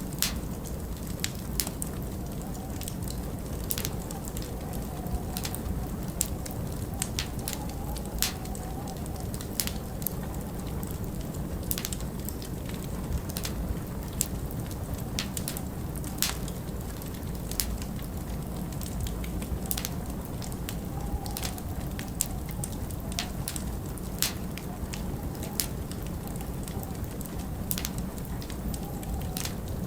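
Wood fire burning in a large stone fireplace: frequent irregular sharp crackles and pops over a steady low rumble. A faint wavering howl of winter wind rises and falls at times.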